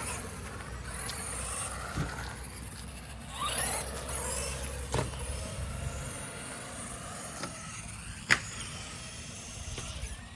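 Electric RC cars driving on concrete: the motors whine, rising and falling in pitch as they speed up and slow down, over rolling tyre noise. Several sharp knocks break in, the loudest about eight seconds in.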